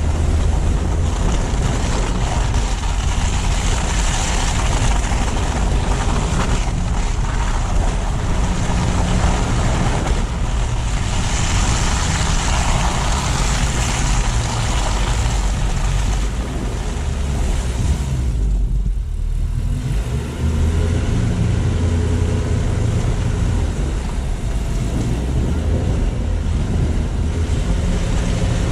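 A car driving through snowy city streets, heard from a low-mounted outside camera: a steady low rumble of road and engine noise under a hiss of tyres and wind. The hiss briefly fades about two-thirds of the way through.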